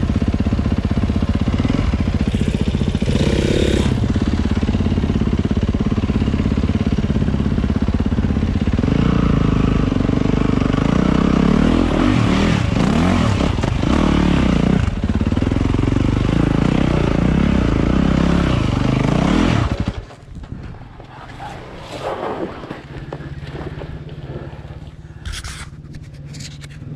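Dirt bike engine running hard on a trail ride, its revs rising and falling again and again from about a third of the way in. About 20 seconds in the engine note drops off suddenly to a much quieter low running sound, with a few sharp knocks near the end.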